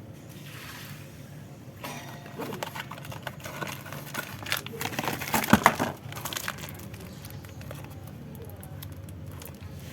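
Hands working on car parts: a run of clicks, rattles and crinkling, busiest about five and a half seconds in, over a steady low hum.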